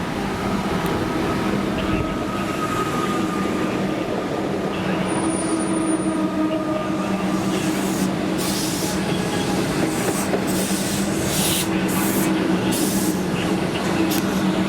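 A passenger train running through the station: a steady motor hum over rolling wheel and rail noise, with hissing, squealing patches of wheel-on-rail noise through the second half.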